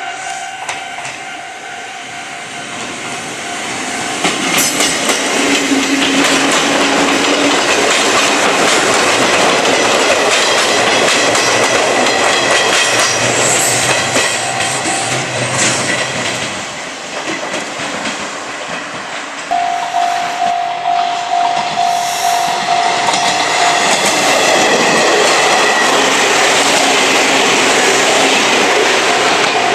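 Izuhakone Railway electric commuter train running past at close range, its wheels clacking over the rail joints. A steady tone is held for several seconds past the middle.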